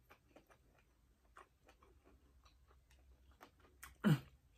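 Someone chewing a piece of smoked sausage: soft, irregular wet mouth clicks and smacks. About four seconds in comes a short vocal sound that falls in pitch.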